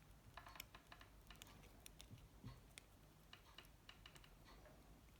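Faint, irregular small clicks and taps of plastic mobile-phone parts being handled and fitted together.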